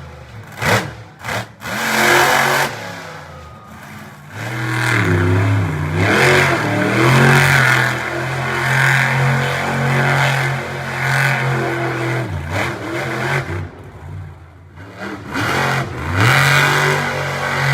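Monster truck engine revving hard, its pitch climbing and falling in repeated surges, with a long held stretch of high revs in the middle.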